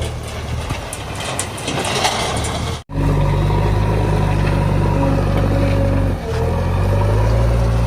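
Heavy diesel machinery at work. For the first three seconds it is a noisy stretch with scattered knocks, then the sound cuts off suddenly. After that a diesel engine runs steadily, dipping briefly about six seconds in and then coming back slightly higher.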